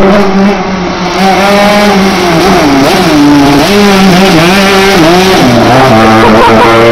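175cc two-stroke motorbike engine on a home-built go-kart, running loud and revving up and down over and over, its pitch rising and falling several times.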